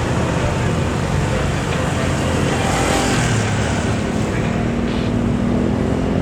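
Jet airliner's engines heard from near the airport: a loud, steady rushing noise with a low hum that grows clearer in the second half.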